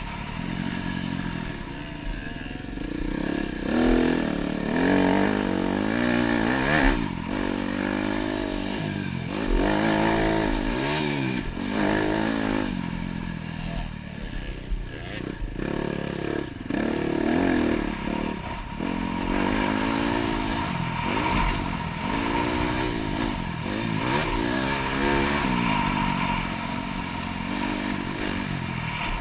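Dirt bike engine being ridden hard, revving up and dropping off again and again every second or two as the throttle is worked, with some clattering from the bike.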